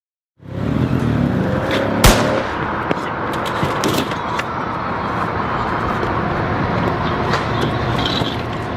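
Motorcycle engine running steadily with a low rumble, with one sharp bang about two seconds in.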